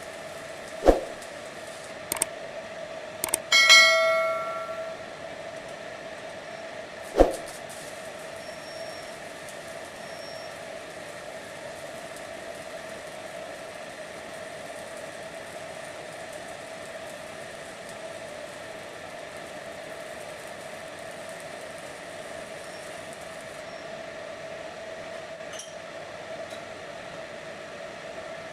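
Steady machinery hum with a held tone. Over it come two sharp knocks, about a second in and about seven seconds in, and a metal clang about four seconds in that rings for about a second, like a steel part or tool being struck.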